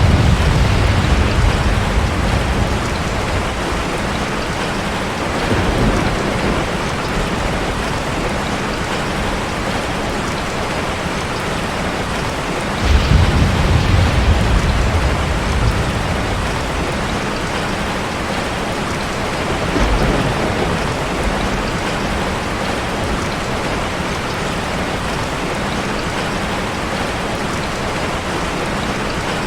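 Steady, loud rushing of falling water from a waterfall ambience, with a deep rumble that swells up and fades four times, strongest about 13 seconds in.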